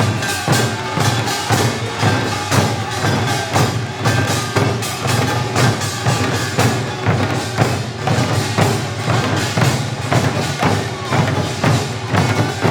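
Korean pungmul band playing: small gongs and drums strike a fast, steady rhythm, with a pitched melody line above it.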